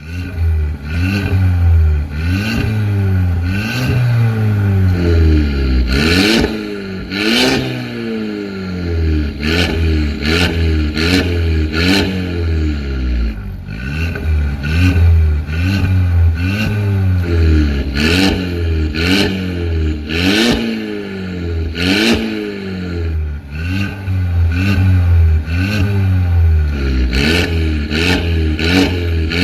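Mercedes-Benz GLA 200 engine revved in quick repeated throttle blips, roughly one a second, through a full aftermarket valvetronic exhaust, with sharp cracks among the revs.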